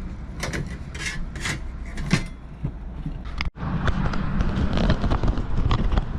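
Handling noise of a steel saw blade and bolt being fitted into a drilled maple handle: light knocks, clicks and scrapes of wood and metal, with a brief break in the sound about halfway.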